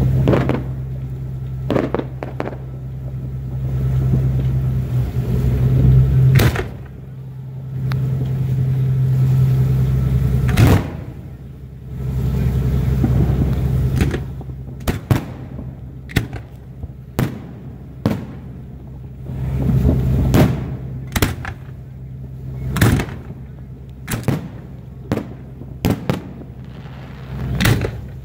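Aerial firework shells bursting overhead in a string of sharp bangs. A few come spaced out at first, then they come faster after about fourteen seconds in. Under them runs a low steady hum that swells and fades.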